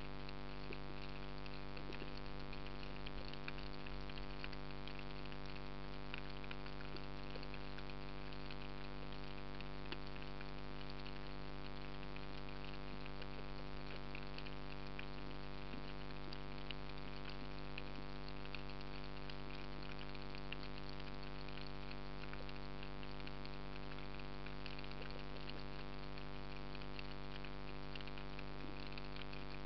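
Underwater ambience: a constant fine crackle of tiny clicks over a steady multi-tone hum.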